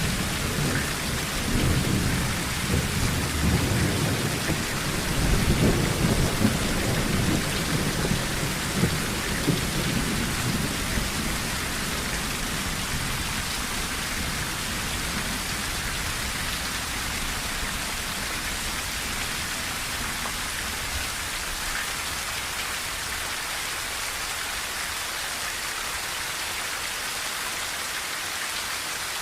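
Steady heavy rain with a rolling rumble of thunder that fades out in the first ten seconds or so, leaving only the rain's even hiss.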